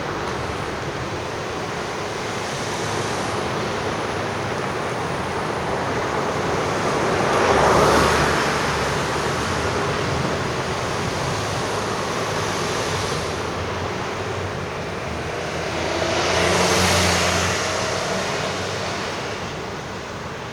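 Road traffic: a steady hiss of tyres on the road, with two vehicles passing close by, one about eight seconds in and one about seventeen seconds in, the second with an engine hum.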